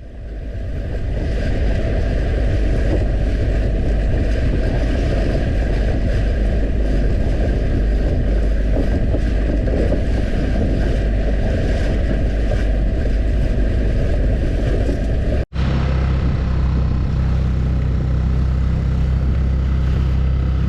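Small outboard motor running on a boat under way, with wind on the microphone. About fifteen seconds in, the sound cuts off abruptly and gives way to a steadier engine hum.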